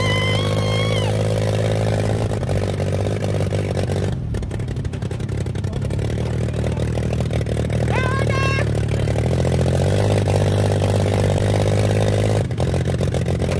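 Small motorbike engine running continuously, its pitch stepping up and down a few times as the throttle changes. Two short rising cries sound over it, one at the start and one about eight seconds in.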